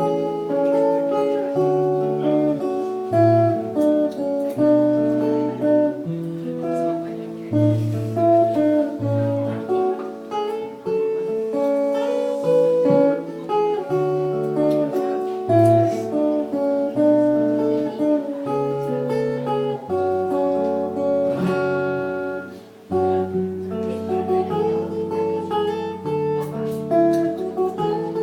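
Acoustic guitar played solo in fingerstyle: a plucked melody over changing bass notes and chords, at an even pace.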